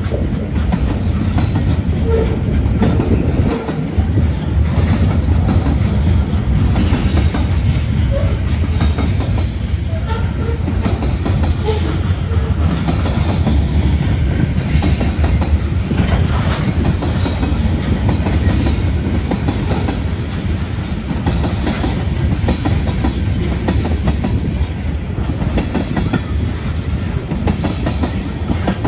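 Freight cars of a mixed manifest train (loaded flatcars, covered hoppers, tank cars) rolling steadily past close by: a continuous loud rumble of steel wheels on rail with clattering as the wheels cross rail joints.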